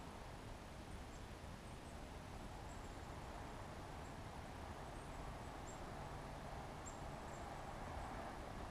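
Small songbirds giving short, very high chirps, scattered about once or twice a second, faint over a steady outdoor hiss.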